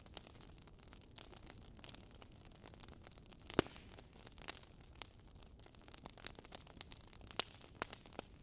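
Burning firewood crackling: a faint hiss with irregular small pops and one louder pop about three and a half seconds in.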